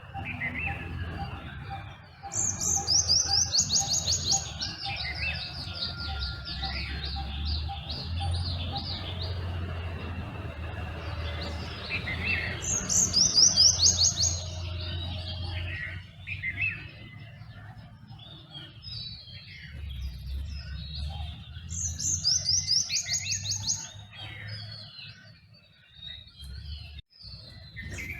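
Morning bird chorus with several birds chirping. One bird sings a loud, fast trill that falls in pitch, three times about ten seconds apart, over a low steady rumble.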